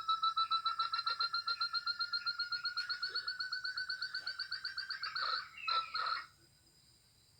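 Puyuh gonggong (jungle partridge) calling: a fast series of whistled notes, about eight a second, slowly rising in pitch for about five seconds, then a few harsher notes before it stops about six seconds in.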